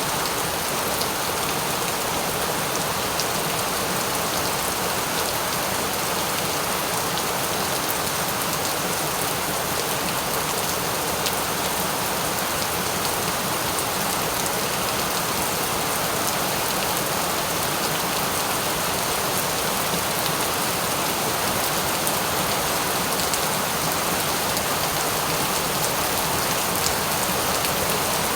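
Steady rain falling: an even hiss that holds the same level throughout, with faint ticks of individual drops in it.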